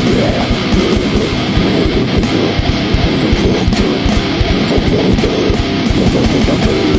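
Heavy metal track: distorted electric guitars over fast, dense drumming, loud and unbroken.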